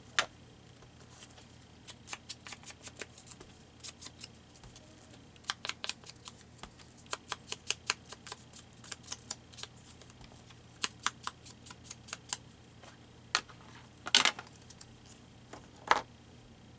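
Light, irregular tapping and clicking of an ink pad being dabbed along the edges of a paper butterfly cut-out, several taps a second in bursts. Two louder knocks come near the end.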